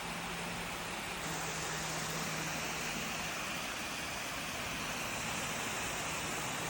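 Steady rushing noise with a low, even hum underneath; a higher hiss joins about a second in.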